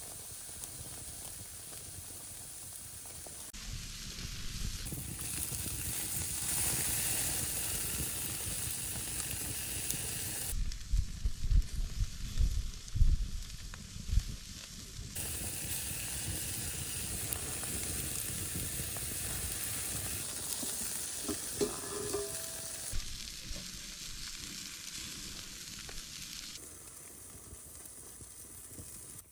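Food sizzling as it fries in a pan over an open campfire, a steady hiss whose level shifts abruptly several times, with low rumbles and bumps about halfway through.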